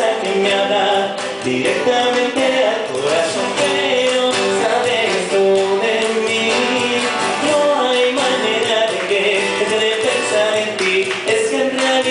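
Live band music: a song played on stage, with a melodic line over the accompaniment.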